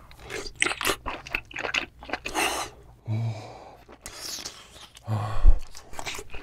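Close-miked wet chewing and mouth clicks of a person eating a chewy piece of yellowtail innard, with two short low hums about three and five seconds in.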